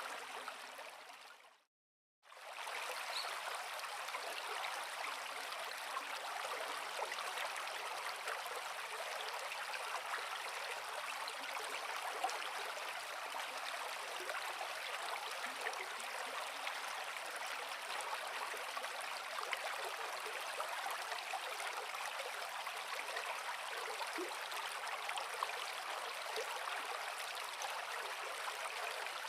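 Forest creek water running and burbling over rocks, a steady, even rush. About two seconds in it fades briefly to complete silence and then comes straight back.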